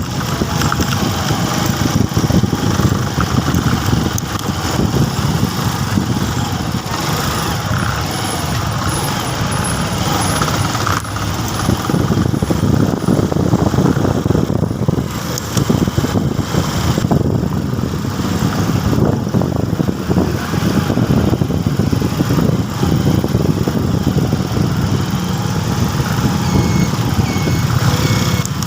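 Motorcycle running steadily under way, with a constant rumble and rushing noise from riding along the road.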